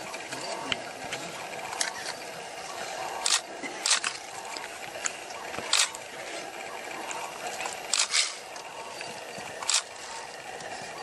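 A scatter of short, sharp clicks, about seven of them, some in quick pairs, over a steady hiss.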